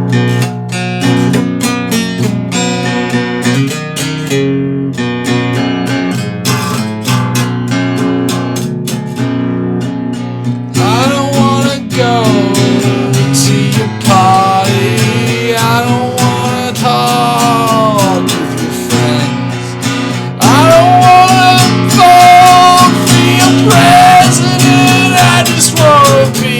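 Strummed guitar playing an instrumental break of the song. About eleven seconds in, a bending, sliding lead melody joins it, and the music gets louder about twenty seconds in.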